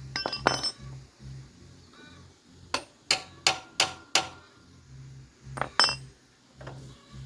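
Metal tools clinking and tapping on metal parts: a couple of sharp clinks at the start, a quick run of five taps in the middle, and two more near the end. Faint background music with a steady beat underneath.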